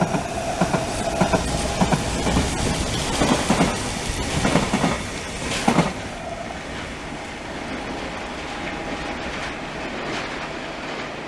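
A train passing on the line, its wheels clattering over rail joints for about the first six seconds, then settling to a steadier, quieter rumble as it moves away.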